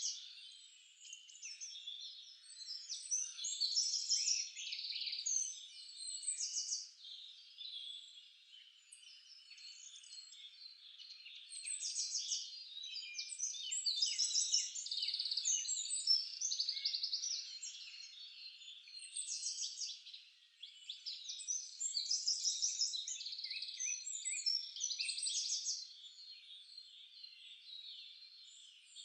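Several songbirds singing and calling at once: overlapping high chirps and fast trills that swell and fade in bursts a few seconds long.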